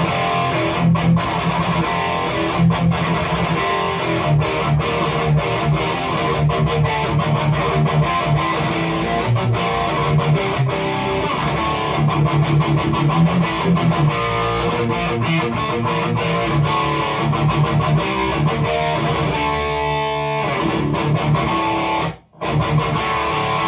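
Electric guitar tuned to D, played through a REVV G3 distortion pedal set to its lower-gain mode into a Randall Diavlo RD20 tube power amp, playing heavily distorted metal riffs with tight palm-muted chugs. A chord rings out near the end, the playing stops abruptly, and one short last hit follows.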